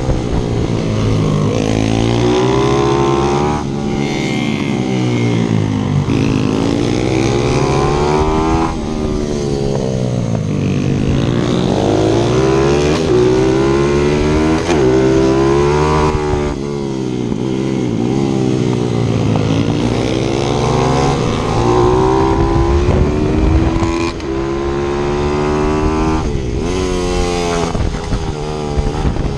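Single-cylinder four-stroke 155 cc pit bike engine ridden hard around a kart track, heard from on board: the revs climb steeply through each gear, then drop sharply on the throttle and downshifts into corners, over and over.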